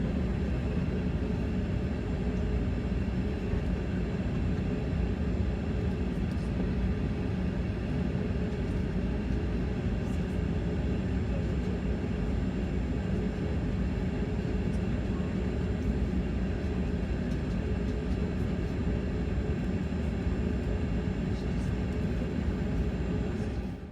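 Steady cabin noise of a Bombardier CRJ-200 regional jet on the ground after landing: an even engine hum and rumble with a faint high whine.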